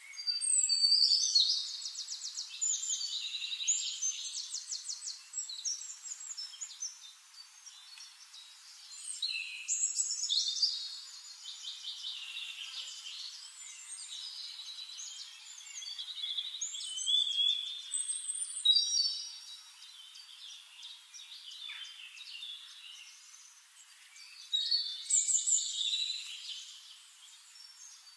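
Songbird singing: bursts of rapid trills and varied chirping phrases, a few seconds apart.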